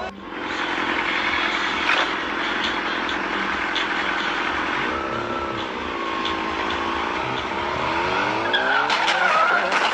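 Car driving: steady engine and road noise, the engine's pitch dropping and then rising again, with a short squeal and a few sharp knocks near the end.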